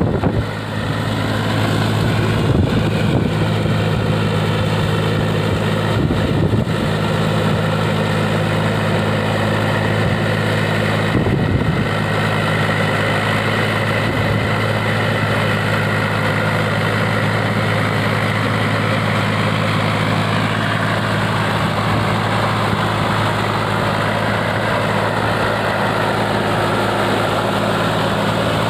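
Mahindra 275 Bhoomiputra tractor's three-cylinder diesel engine running steadily, with a few short knocks in the first dozen seconds.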